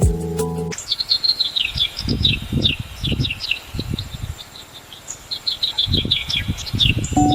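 Open paddy-field ambience: clusters of quick, high chirps repeating, with low rumbles of wind on the microphone twice. Soft music is heard in the first moment, and chiming mallet music comes in right at the end.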